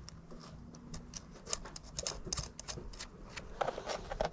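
Irregular light clicks and taps, small parts being handled and fitted while working on a car's light switch.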